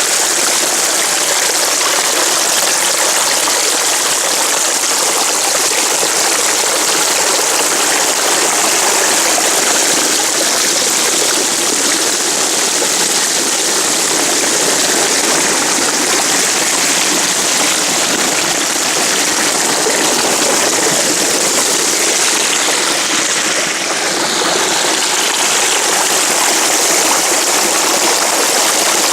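Creek water flowing steadily, a constant, even wash of water noise.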